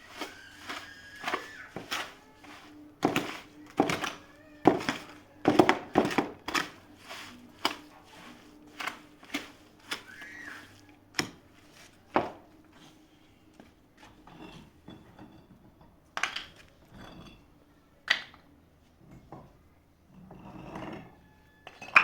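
A series of irregular knocks and thuds, often one to two a second and thinning out after the middle, over a faint steady hum.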